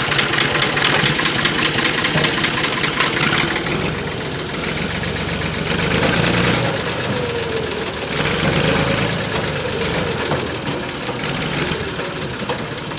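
Tractor engine running steadily at a low speed, with a clattering note, its pitch wavering up and down a little around the middle.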